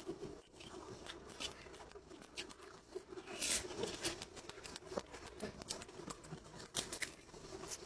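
Close-miked chewing and wet mouth sounds: irregular smacking clicks and short crackly bursts of someone eating.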